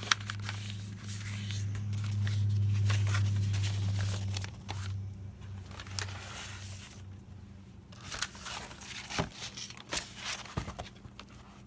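Sheets of paper being handled and torn to size, with scattered rustles, scrapes and clicks. A loud low hum swells in the first half and fades out about the middle.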